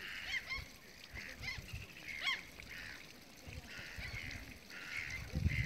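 Birds calling over and over: short, bending, high calls mixed with harsh rasping notes. A low rumble comes in near the end.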